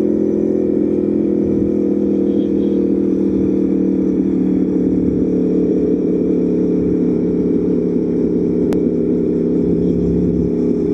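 Aprilia Tuono V4 1100 Factory's V4 engine running at a steady cruise, its note holding even throughout.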